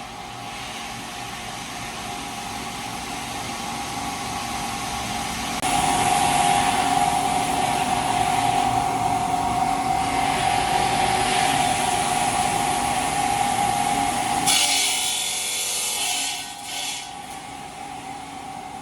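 Power machinery running with a steady high whine over a grinding hiss. The sound jumps louder about six seconds in and changes abruptly again near fifteen seconds.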